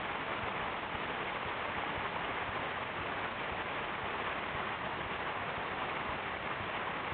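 Waterfall in flood: a steady, unbroken rush of heavy falling water.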